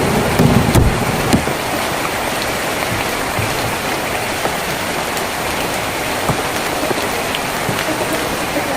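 Steady rain on a tin roof: an even hiss dotted with scattered sharp drips. A low thunder rumble dies away about a second in.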